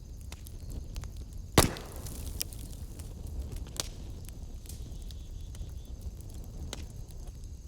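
Wood fire in a fireplace crackling over a steady low rumble of the flames, with one loud sharp pop from the burning wood about a second and a half in and scattered smaller snaps.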